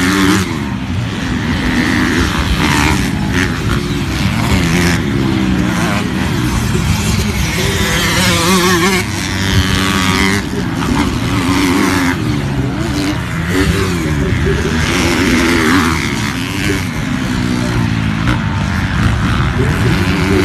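Several motocross dirt bike engines revving, their pitch rising and falling with the throttle.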